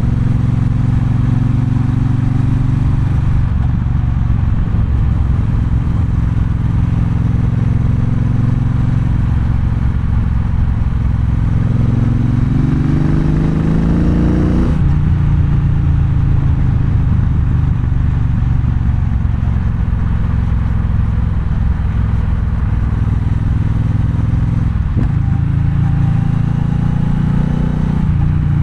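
Triumph Bonneville Bobber's 1200 cc parallel-twin engine running under way. The engine note climbs steadily from about twelve seconds in, then drops suddenly near fifteen seconds and settles back to a steady run.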